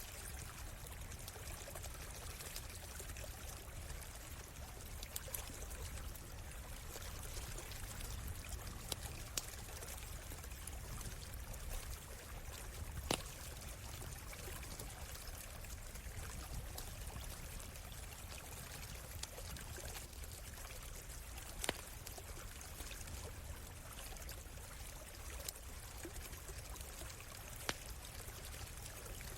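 A small stream running steadily, with scattered sharp pops from a crackling wood campfire; two louder pops come near the middle and about three quarters of the way through.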